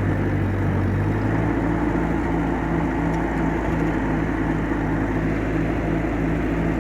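1956 Massey Ferguson F40 tractor engine running steadily under load while pulling a bush hog rotary mower; its low tone shifts about a second in, then carries an even pulsing of about three beats a second.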